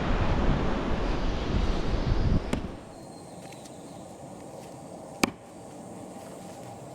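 Wind buffeting the microphone, which drops away a little under three seconds in to a faint steady hiss. A sharp click comes about five seconds in.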